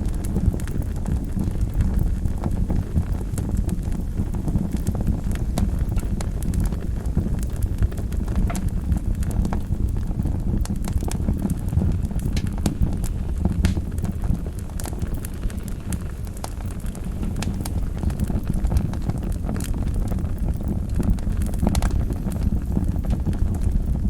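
Wood fire burning in a fireplace: a steady low rumble of the flames with many small, irregular crackles and pops throughout.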